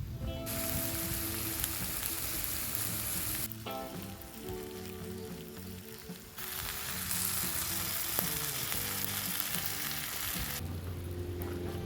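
Food frying, a loud sizzle that comes in two stretches of about three and four seconds with a short lull between, over steady background music.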